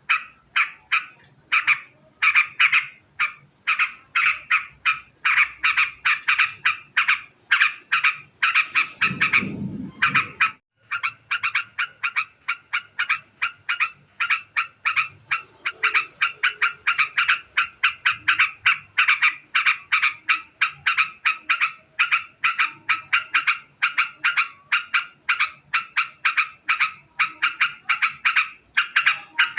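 Yellow-vented bulbul (trucukan) giving a long, very fast chattering call: short notes repeated several times a second without a break. A brief low rumble sounds under it about nine seconds in.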